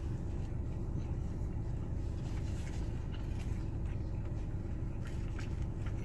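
Steady low rumble from a car, with faint chewing and mouth clicks through the second half.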